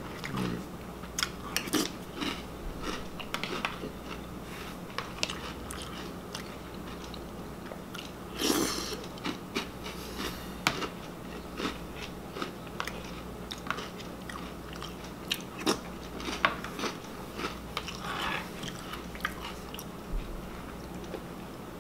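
Chewing and crunching Reese's Puffs cereal with an open mouth, with short, sharp clicks of a spoon against the plastic bowl scattered throughout.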